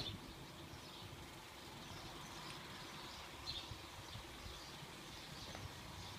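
Quiet outdoor background with faint, scattered small-bird chirps.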